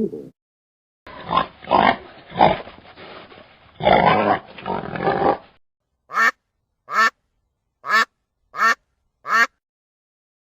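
Animal calls from two separate recordings: a run of irregular calls between about one and five and a half seconds in, then five short, evenly spaced calls, one every two-thirds of a second or so.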